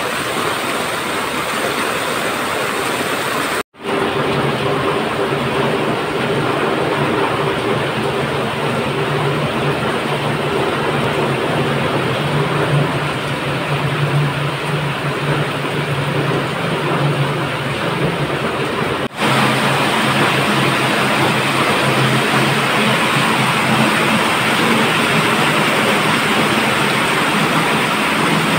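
Heavy rain pouring down, with runoff splashing onto paving and steps: a loud, steady rush with a low steady hum under it for most of the time. The sound cuts out sharply twice, for a moment each time.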